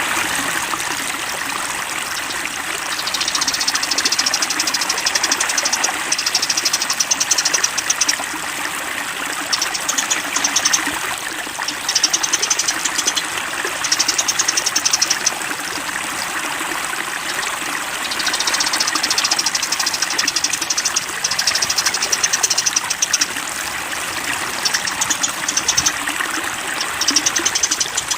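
Flowing water rushing steadily, with a small songbird's fast, high, rattling trills coming in repeated bouts of a few seconds each.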